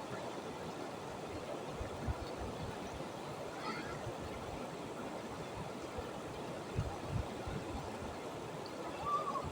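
Steady rush of stream water, with a few short low thumps.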